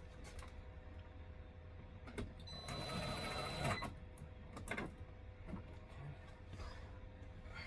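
A small power tool, likely a cordless drill/driver, runs for about a second and a half, with a steady high whine, near the middle. Handling clicks and knocks come before and after it.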